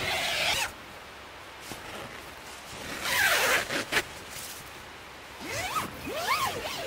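A zipper pulled in three separate strokes, each a short rasping sweep that rises and falls in pitch.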